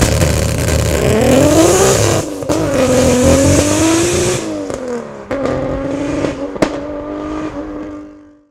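Nissan Skyline R33 GT-R's twin-turbo straight-six (RB26DETT) accelerating hard away. The revs climb, drop at a gear change about two seconds in and climb again, then ease off and hold steady, with a single sharp pop late on before the sound fades out.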